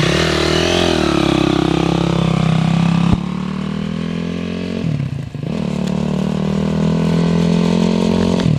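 Honda CRF250R single-cylinder four-stroke dirt bike engine running close by, its pitch rising and falling with the throttle. A sharp click comes about three seconds in, and the revs dip briefly around five seconds in before picking up again.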